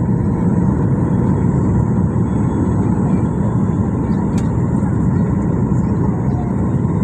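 Airliner cabin noise: a steady, loud low rumble of jet engines and airflow heard from inside the passenger cabin.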